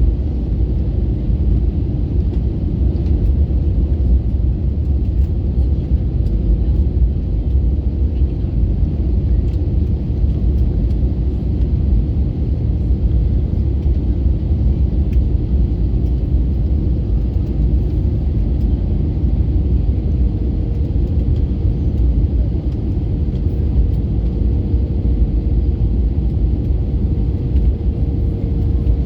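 Airbus A321neo cabin noise in flight: a loud, steady rumble of engines and airflow. A faint steady hum becomes stronger about two-thirds of the way through.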